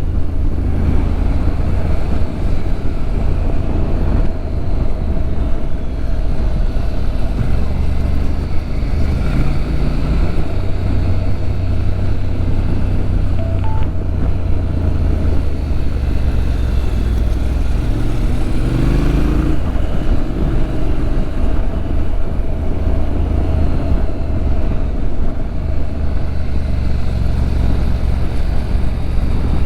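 Motorcycle riding at road speed: a steady heavy rumble of wind on the microphone over the engine, with a short rising engine note about two-thirds of the way through.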